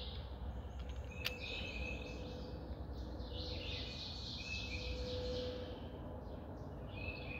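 Birds chirping and calling in the background over a steady low outdoor hum, with one sharp click about a second in.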